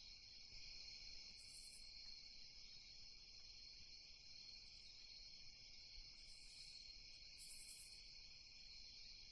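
Faint night ambience of crickets chirping steadily, with a higher-pitched insect trill cutting in briefly three times.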